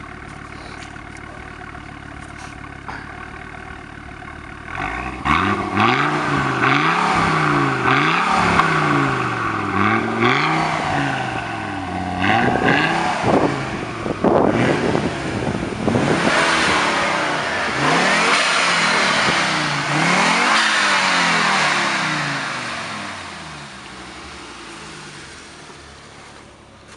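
1995 Audi S6 20-valve turbocharged inline five-cylinder engine idling, then revved again and again from about five seconds in, each rev rising and falling in pitch, with some longer, higher revs in the middle. It settles back to a steady idle near the end.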